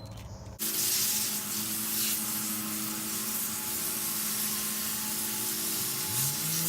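Garden hose spray nozzle jetting water onto a plant to blast off aphids: a steady hiss that starts suddenly about half a second in. Near the end a low hum rises in pitch underneath.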